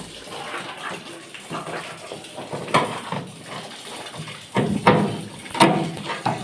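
Water running from a tap and splashing, with a steady rush and several sharper, louder splashes in the second half.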